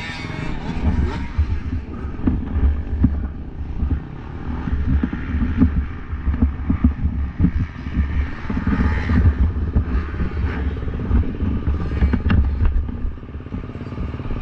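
Motocross bikes running, their engines rising and falling in pitch over a heavy, uneven rumble.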